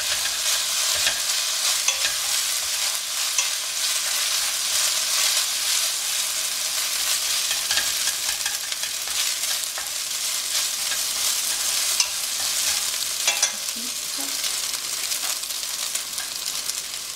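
Egg fried rice sizzling steadily in a hot pan as it is stirred, with occasional small clicks and scrapes of chopsticks against the pan. Light soy sauce has just gone in.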